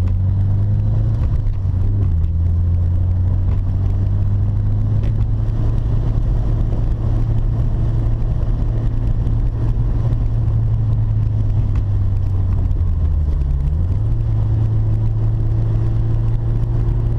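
Mitsubishi Lancer Evolution V's turbocharged 2.0-litre four-cylinder engine heard from inside the cabin while driving, with road noise. It rises in pitch over the first couple of seconds, then runs at a steady pitch, with a brief dip and pick-up about three-quarters of the way through.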